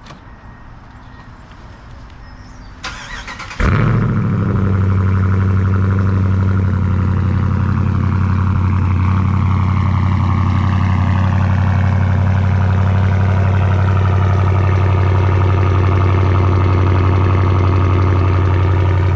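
2020 Ram Power Wagon's 6.4-litre HEMI V8 cold-started through a Flowmaster Outlaw race muffler with the resonator deleted. The starter cranks briefly, the engine catches about three and a half seconds in with a sudden loud burst, then settles into a steady, loud cold high idle whose pitch slowly drops.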